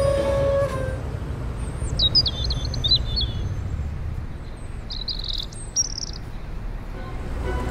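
Small birds chirping in two short bouts of quick high chirps, about two seconds in and again about five seconds in, over a steady low background rumble.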